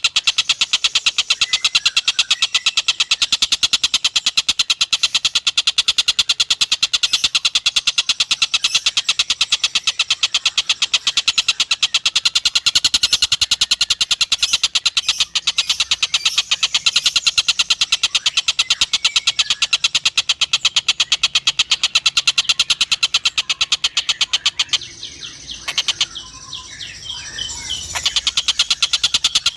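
Tengkek buto kingfisher giving a long, fast, rattling chatter of rapidly repeated high notes. The call breaks off for a few seconds near the end, then starts again.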